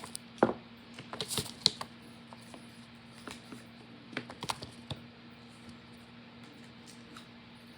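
Scattered light clicks and taps, thickest in the first five seconds and sparse after, over a low steady hum.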